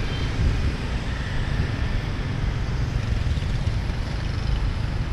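Steady low rumble of road traffic heard while moving along a busy city street.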